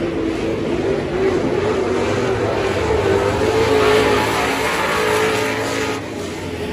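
Dirt-track super stock race car engine running hard, its pitch climbing slowly through the middle and the sound easing about six seconds in.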